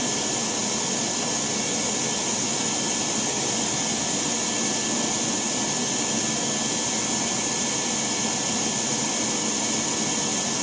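Shop vacuum running steadily, a constant rushing noise with a faint motor whine, used to clean dirt out of a gas boiler's burner.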